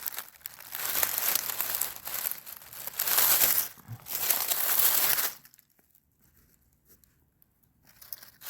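Dry leaf litter and ground cover rustling and crinkling in several bursts, stopping a little past halfway.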